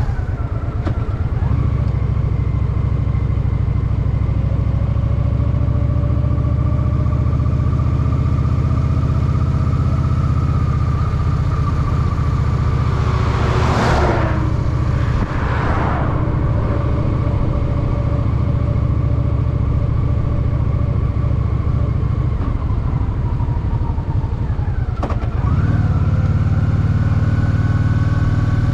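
Honda Shadow VT750's V-twin engine running steadily on the move. About halfway through there is a brief loud rush of noise. Near the end there is a click, after which the engine pitch climbs as it pulls harder.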